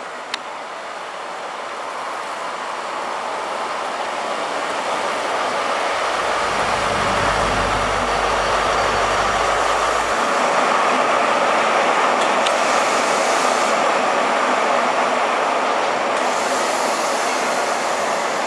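InterCity 125 High Speed Train passing through at speed. The rumble grows louder over the first several seconds. The Class 43 power car's diesel engine drones low as it goes by, around the middle. Then its Mark 3 coaches rush past with a steady loud roar of wheels on rail.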